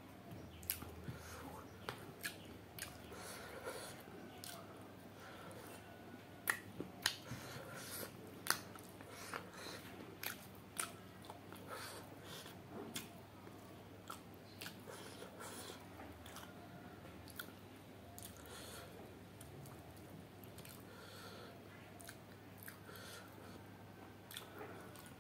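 Close-up chewing and biting of chicken curry eaten by hand, with frequent sharp wet mouth clicks, the loudest about six to nine seconds in.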